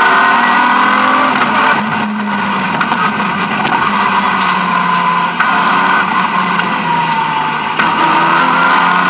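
BMW E36 M3 rally car's straight-six engine pulling hard at full throttle, heard from inside the cabin: the pitch climbs repeatedly and drops back sharply at each of several quick gear changes.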